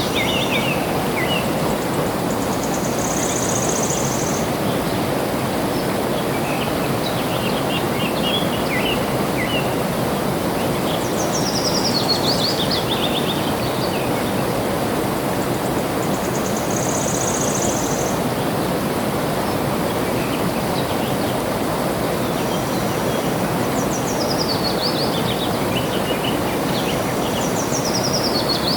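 Steady rush of flowing water with birds singing over it. A run of quick notes falling from high to lower pitch comes several times, with a short high buzzy note twice and scattered chirps between.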